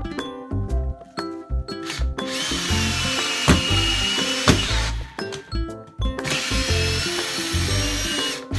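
Cordless power tool motor run twice at full speed with no load, each time a few seconds of high, steady whine, with two sharp clicks in the first run. Background music plays throughout.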